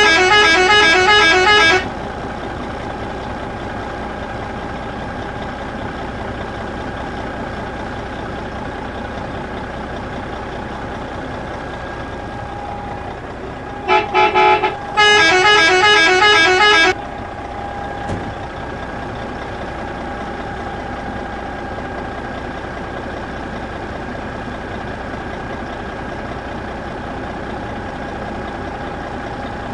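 Vehicle horn sounding in loud, rapidly pulsing blasts, first for about two seconds and then twice more around the middle, over a steady engine hum.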